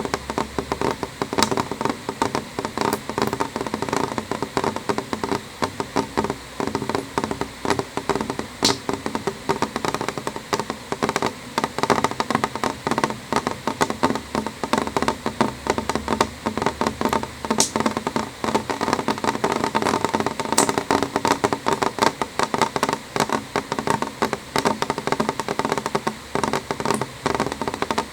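Rain falling on a window pane: a steady, dense run of irregular drops tapping on the glass, with an occasional sharper click.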